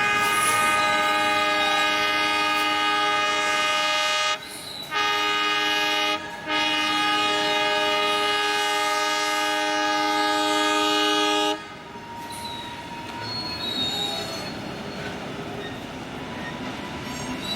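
Multi-tone horn of an Iowa Traction Railway electric steeple-cab locomotive sounding in three blasts: a long one already under way, a short one, then a long one of about five seconds that stops abruptly. After the horn, the freight train rolls by with thin wheel squeal.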